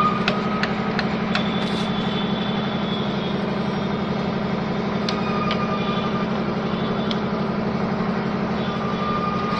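A motor running steadily with a low hum, with a few light clicks along the way.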